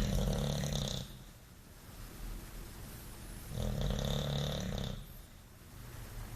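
A bulldog snoring: two loud snores, each about a second long. One comes at the start and the next about three and a half seconds later, with quieter breathing between.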